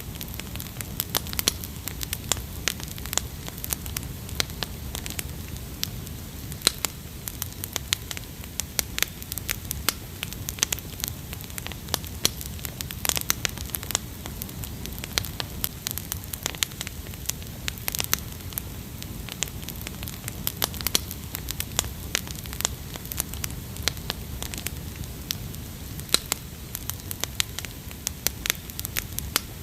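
Wood fire crackling: many irregular sharp pops and snaps over a low steady rumble of burning.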